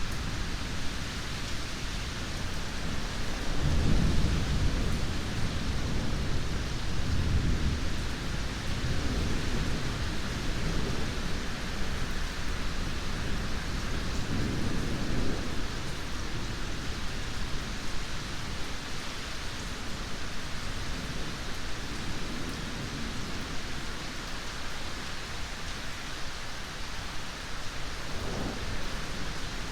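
Steady heavy rain with rolling thunder: a loud low rumble about four seconds in that swells again around seven seconds, another rumble around fifteen seconds, and a short one near the end.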